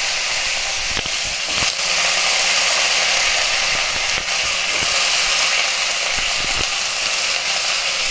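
Raw potato wedges frying in hot mustard oil in a kadai, just added to the pan: a steady, dense sizzle with a few scattered crackles.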